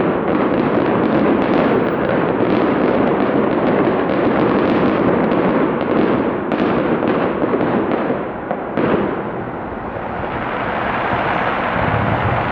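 Fireworks display: a dense, rapid barrage of bursts and crackles that stops about nine seconds in, leaving a steady rushing noise.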